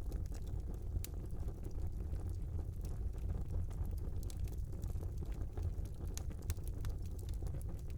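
Small wood fire in a fireplace burning with a steady low rumble and scattered sharp crackles and pops.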